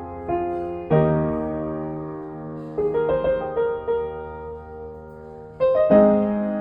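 Slow, soft solo piano background music: sustained chords struck about a second in and again near the end, with a few melody notes in between.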